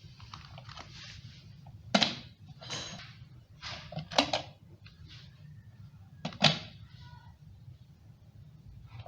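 Handling noises from work on an electric kettle's lid: short scrapes, each about half a second long, broken by sharp clicks or knocks about two, four and six and a half seconds in.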